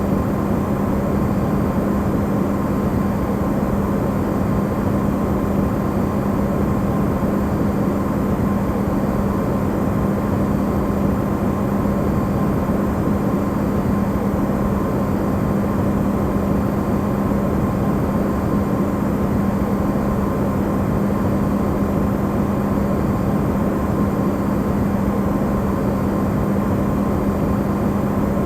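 Electrolux refrigerator running, recorded amplified: a steady, unchanging hum with a strong low tone and a faint higher whine over a broad hiss.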